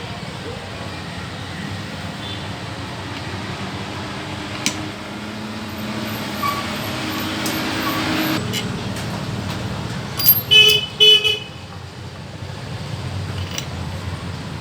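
Road traffic running past, with a vehicle horn sounding three short toots about ten seconds in.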